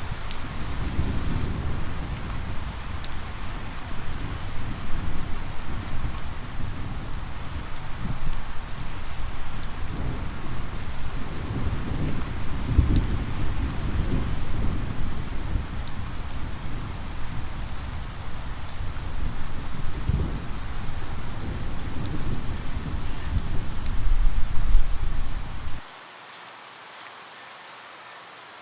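Steady rain with scattered sharp drop ticks and a deep rumble of thunder that swells and fades. About 26 seconds in the rumble cuts off suddenly, leaving a quieter rain hiss.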